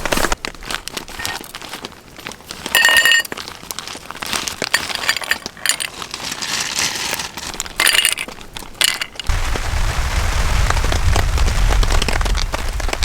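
Scattered crackling and clicking with two brief louder rustling bursts, then from about nine seconds in, strong wind buffeting the microphone with a heavy low rumble.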